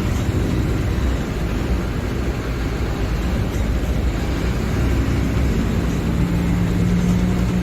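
Mercedes-Benz OF-1721 Bluetec 5 bus's diesel engine running steadily, with a humming tone that grows stronger near the end.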